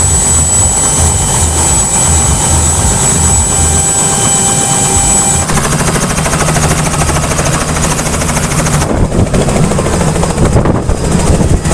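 Helicopter running loud, its turbine and rotor noise dense and steady, with a high steady whine in the first half. The sound changes abruptly about five seconds in and again about nine seconds in.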